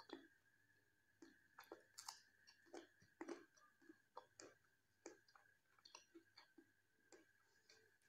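Close-miked chewing of a mouthful of soft rice and jackfruit curry: irregular wet smacks and mouth clicks, a few to a second. A faint steady high tone hums underneath.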